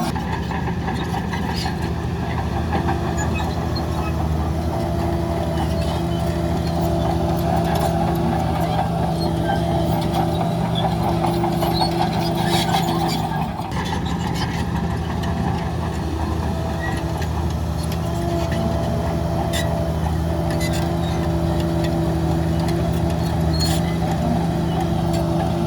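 Heavy diesel engine of earth-moving machinery, a bulldozer or dump truck, running steadily, with scattered metallic clanks. The engine note drops briefly about halfway through, then picks up again.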